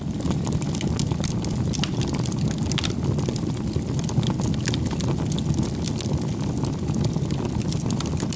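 Bonfire burning, with a steady low rumble of flames and frequent small crackles and pops.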